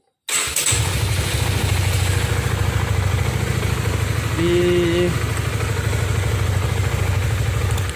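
Honda CB150R's single-cylinder engine electric-started and idling steadily, then shut off near the end: a test start with the new injection-delay module fitted to the alarm's starter line. A brief tone sounds about halfway through.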